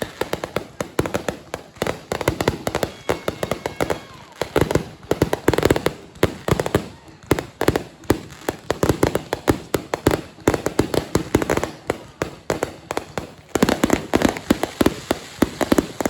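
Fireworks going off in rapid strings of sharp pops and bangs, many a second, coming in clusters with short lulls about four seconds in and again near the end.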